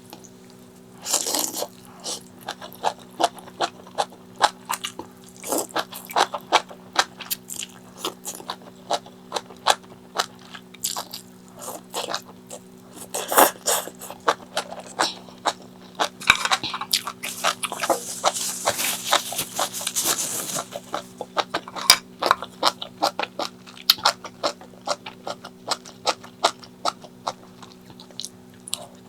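Close-miked eating sounds: a person chewing and crunching food, with many quick, irregular mouth clicks and smacks and a longer rustling stretch about two-thirds of the way through. A steady low electrical hum runs underneath.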